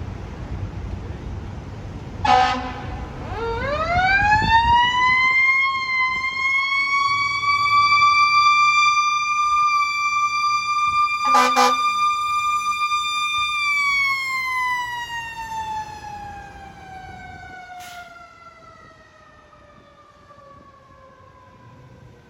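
Fire truck's mechanical siren winding up to a steady wail, held for several seconds, then slowly coasting down in pitch, with two short horn blasts, one about two seconds in and one midway. A truck engine rumbles under the first few seconds.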